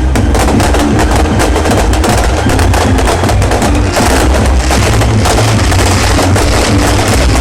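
A dense fireworks barrage: rapid, continuous crackling over a steady low rumble, with no pause.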